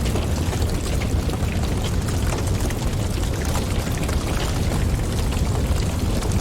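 Wood fire burning in a fireplace with a steady low rumble of flames and a dense scatter of small crackles and pops, mixed with wind.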